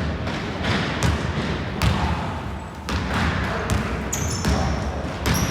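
Basketball bouncing on a gym floor, with sharp impacts roughly once a second that echo through the hall, and short high sneaker squeaks from about four seconds in.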